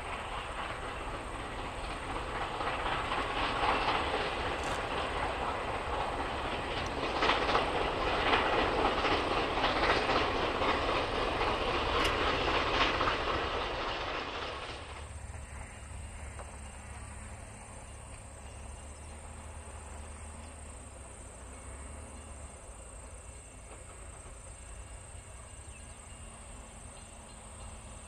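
Carriages of a steam-hauled train rolling past close by, wheels clattering on the rails in swelling surges. About halfway through it cuts off abruptly to a faint, distant low rumble of the train.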